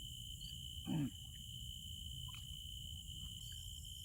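Steady chirring of crickets at night, a constant high drone. About a second in comes one short, low grunt-like call that drops in pitch.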